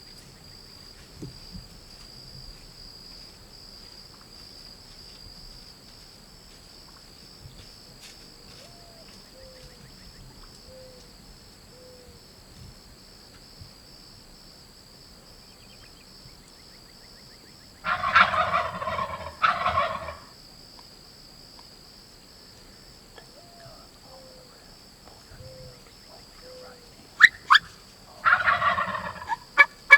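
Wild turkey toms gobbling: two loud gobbles about 18 and 20 seconds in, and another near the end.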